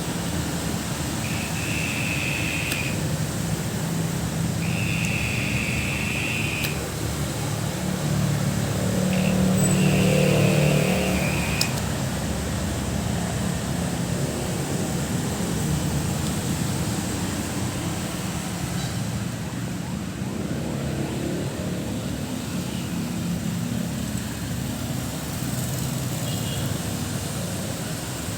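A high, even buzzing trill coming from a flower pot, heard three times for about two seconds each in the first half, over a steady low rumble like distant traffic or a fan.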